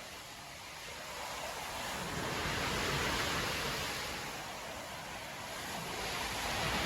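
Storm surf breaking and washing up a beach: a rushing wash of noise that swells about three seconds in, eases, and builds again near the end as the next wave comes in.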